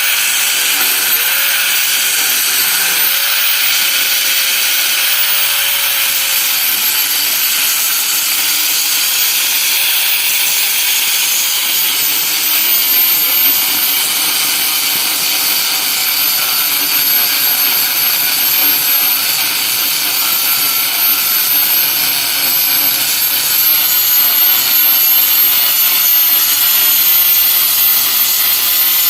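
Steady, loud hissing from a metalworking tool on the steel excavator boom, with a faint wavering whine.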